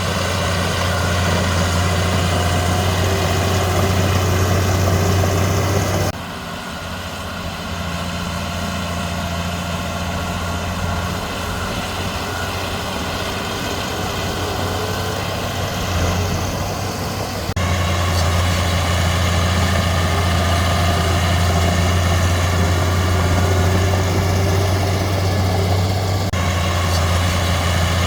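Diesel engine of heavy earthmoving machinery running steadily with a low hum. It drops abruptly to a quieter, thinner sound about six seconds in and comes back just as abruptly about eleven seconds later.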